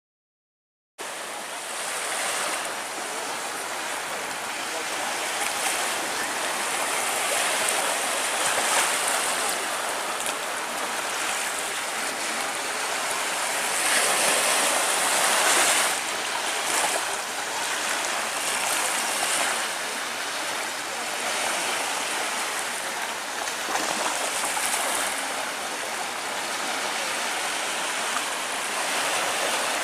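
Water rushing and splashing along a sailboat's hull under way, starting about a second in: a steady hiss that swells and eases.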